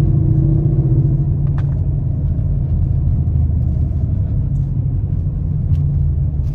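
Chevrolet Camaro SS's V8 engine and tyre noise inside the cabin while driving: a steady low drone. A higher hum fades out about a second in.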